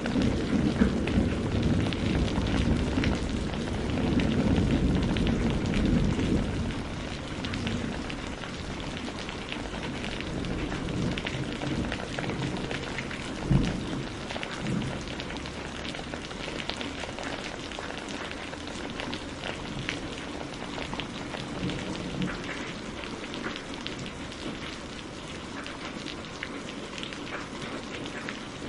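Steady rain falling, with dense patter of drops on a surface. A rolling thunder rumble dies away over the first six or seven seconds, and a single short, sharp low thump comes about halfway through.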